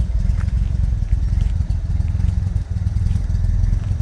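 Classic Jaguar's engine idling steadily, a low, even rumble.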